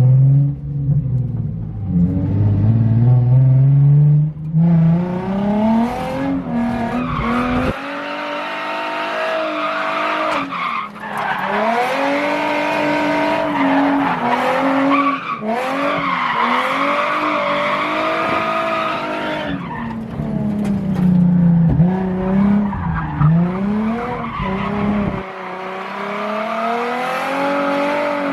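Drift car's engine revving up and down through the gears while its rear tyres squeal and slide through a drift lap.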